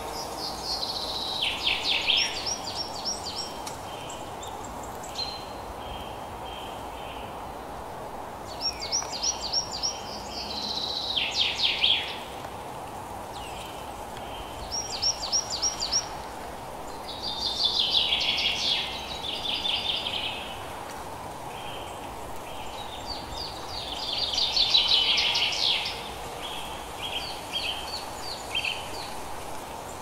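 Songbirds singing quick trilled phrases in bursts every few seconds, with short repeated chirps between them, over a steady background hiss.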